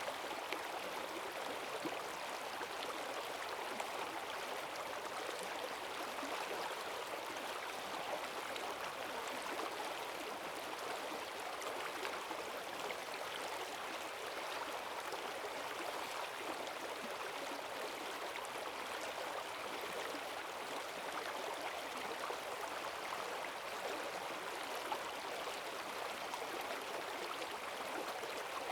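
Forest stream in spate after heavy rain, its strong current rushing and gurgling steadily over the streambed.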